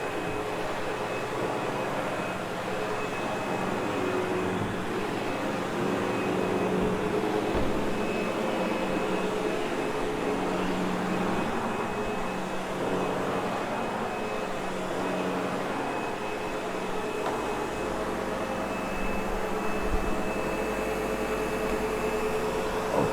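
Sebo X8 upright vacuum cleaner running steadily over carpet, its motor giving a constant whine over the rush of air, with small shifts in tone.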